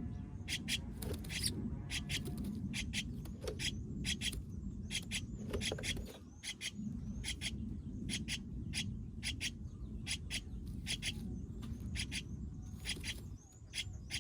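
Nestling bird chirping repeatedly: short high chirps, often in pairs, several a second, with a steady low rumble underneath.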